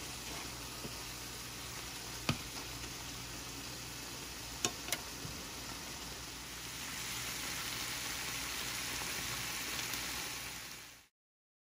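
Thin-sliced beef in sauce sizzling in a stainless steel skillet while being stirred with wooden chopsticks, which click against the pan three times. The sizzle gets louder about two-thirds of the way through, then cuts off suddenly near the end.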